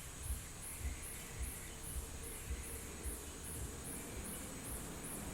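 Insects chirping in a steady high pulse about twice a second, with soft low thuds at a similar, walking-like pace.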